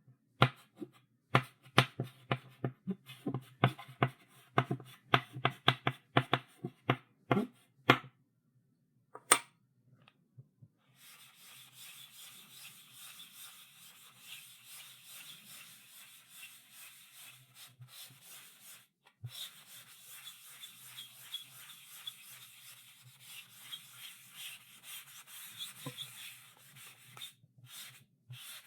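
Chalk on a chalkboard: quick sharp taps and short strokes for about the first eight seconds, then, after a short pause, a long scratchy rubbing with brief breaks.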